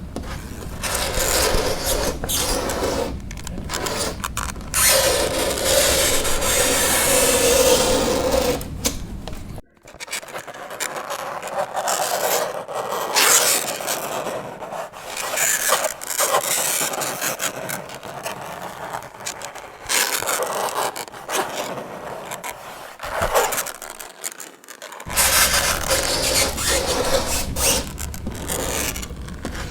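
Fingernails scraping across a chalkboard: a run of rasping scrapes of different lengths, with one long held screech from about five to nine seconds in and shorter, patchier strokes after it.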